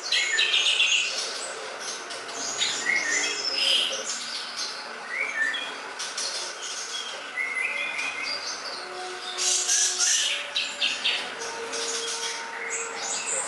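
Recorded songbird calls: rapid high chirps, short rising and falling whistles and buzzy twitters in quick succession, with louder clusters at the start and about ten seconds in. It is a bird-song lure recording of the kind played to draw birds to a trap.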